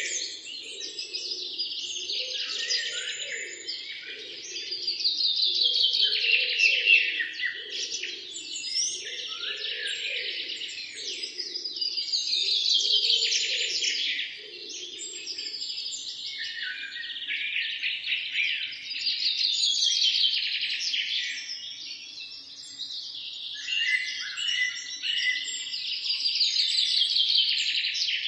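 Many birds chirping and singing at once, a dense chorus of quick trills and calls that swells and fades about every seven seconds. A fainter low pulsing sound runs beneath it for the first half.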